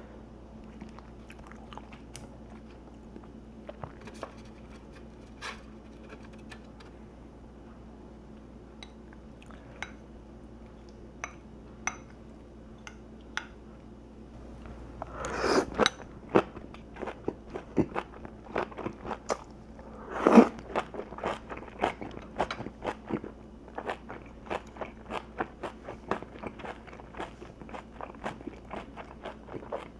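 Close-miked eating: soft, sparse mouth clicks at first, then a loud crunching bite about halfway through and another a few seconds later, followed by rapid, steady crunching chewing of crispy food.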